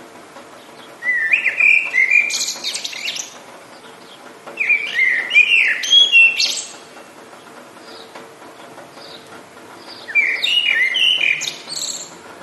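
A songbird singing three phrases of about two seconds each, quick runs of rising and falling whistled notes. Between phrases there is a steady background hiss of light rain.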